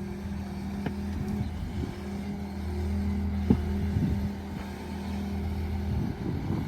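Skid steer engine running steadily with a low hum and a few light knocks; the deepest part of the hum drops away near the end.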